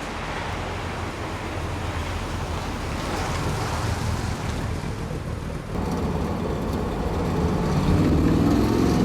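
1963 Corvette C2's 327 V8 running through its exhaust as the car is driven. The sound dips briefly about two-thirds through, then the engine note rises and grows louder as it accelerates near the end.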